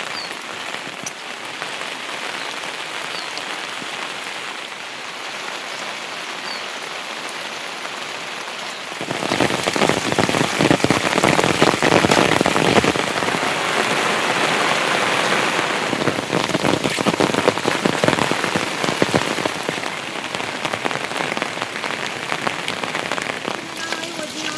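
Heavy rain falling, a steady hiss that turns suddenly louder and denser about nine seconds in, with many separate drops striking close by.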